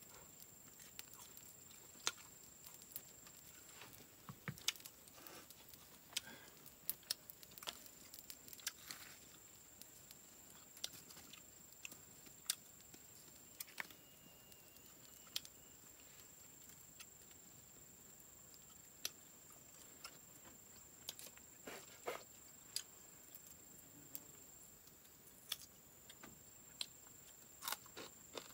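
Quiet eating of grilled frog: scattered small crunches and clicks as the meat is pulled apart by hand and chewed. A faint steady high-pitched whine runs underneath.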